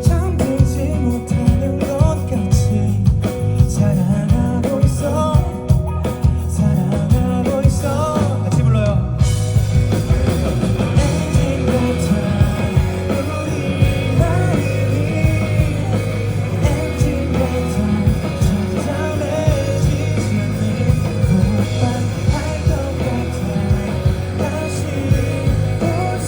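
Live rock band playing with a lead singer. The sound gets fuller in the highs about nine seconds in, as the band's cymbals and guitars thicken.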